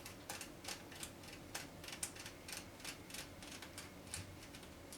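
Irregular light clicks and taps, about four a second, from a small hand tool and fingers working on the parts of a cassette boombox as it is taken apart.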